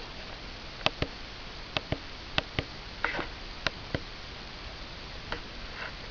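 A martial artist's feet and hands during a tai chi form: a string of sharp, irregular knocks and slaps, about a dozen in three seconds, then a few fainter ones, over a steady hiss.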